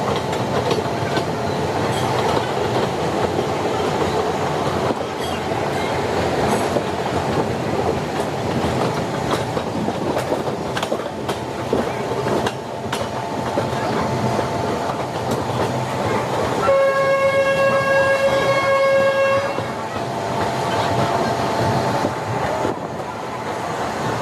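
Indian Railways electric local train running through a station, its wheels clattering over the rail joints under a steady whine. About 17 s in, the train sounds one steady horn blast lasting about three seconds.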